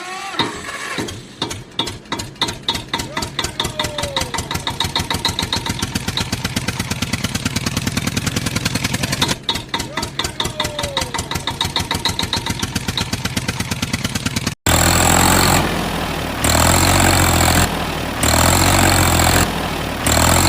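A vehicle engine starts and chugs, its beat quickening as it runs up, then starts over and quickens again about nine seconds in. A few seconds before the end it cuts off abruptly, replaced by a louder sound that switches on and off in regular blocks.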